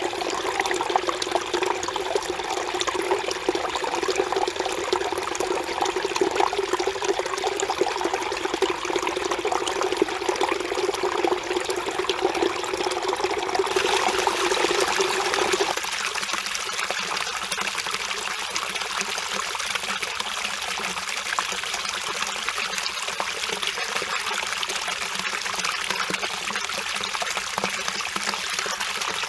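Mountain stream flowing and splashing over rocks, steady throughout. Around halfway through it changes abruptly, as at a cut to another stretch of water, from a fuller, lower rush to a thinner, hissier trickle.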